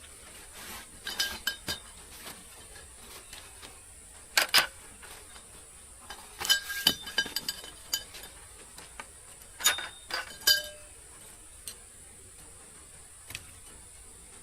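Utensils clinking against cookware: a few clusters of sharp taps, each ringing briefly.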